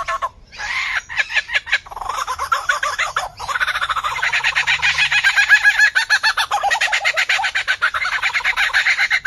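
A bird calling in a rapid run of short repeated chattering notes, several a second, broken by brief gaps in the first few seconds and running on steadily from about three and a half seconds in.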